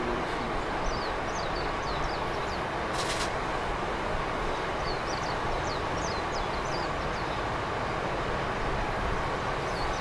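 Small birds calling in short runs of quick, high, falling chirps over a steady rushing background noise, with a brief sharp hiss about three seconds in.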